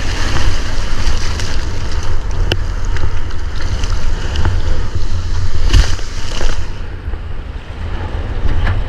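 Strong wind buffeting an action camera's microphone, a constant deep rumble, with the wash of sea water and surf mixed in and a few small clicks.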